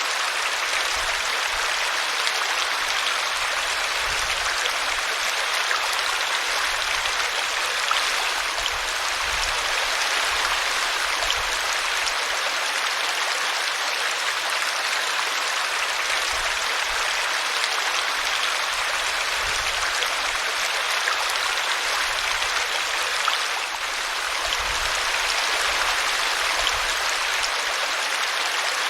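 Small forest brook running steadily as it spills over a tree root, an even rush of water.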